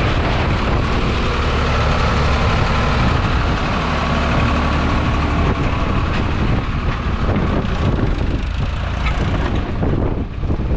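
Farmtrac 60 tractor's diesel engine running under load, pulling a fully loaded trolley. The engine note is steady for the first half, then grows rougher with wind buffeting the microphone.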